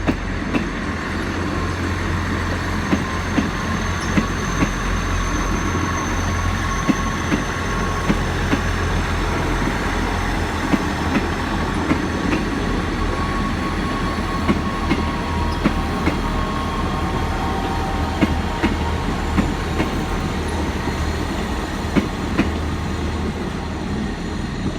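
South Western Railway diesel train pulling out of the station: a steady low engine rumble under a quick, irregular clatter of wheels over rail joints and points, with faint whining tones from the wheels.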